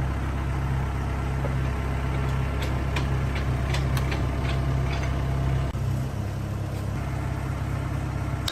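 An engine idling steadily, with a few sharp clicks in the middle; its low hum drops off a little about six seconds in.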